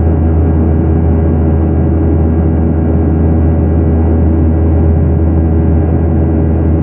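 Boeing 737-900ER's CFM56-7B turbofan engines running at steady thrust, heard inside the cabin as a loud, even drone with a strong low hum and several steady tones, unchanging throughout.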